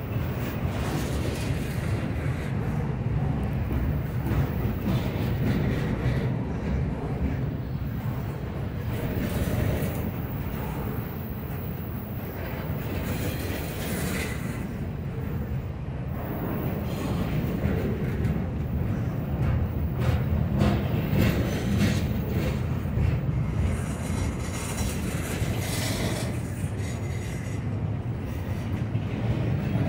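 Norfolk Southern freight train rolling past, a steady rumble of the cars on the rails broken by many short clicks of wheels over rail joints.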